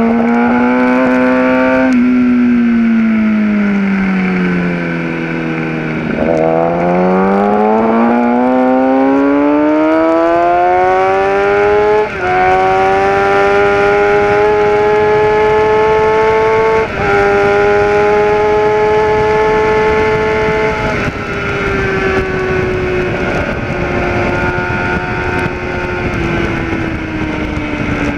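Kawasaki ZX-10R's inline-four engine at speed on a racetrack. The revs fall away into a corner, then climb steadily under hard acceleration, with quick upshifts about 12 and 17 seconds in. The engine note eases off again near the end as the bike slows.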